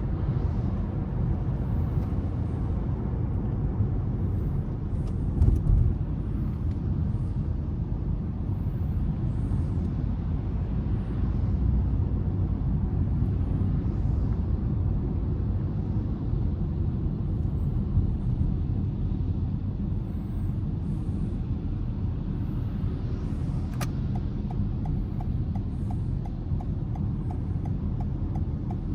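Car driving in city traffic: a steady low rumble of engine and tyres on the road, with a brief louder thump about five seconds in. Near the end an even ticking starts, like a turn-signal indicator clicking.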